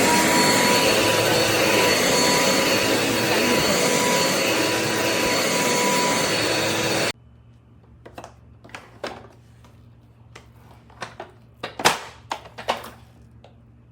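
Dirt Devil Endura Lite upright bagless vacuum cleaner running with a steady motor whine, switched off suddenly about halfway through. This is followed by a few light clicks and knocks.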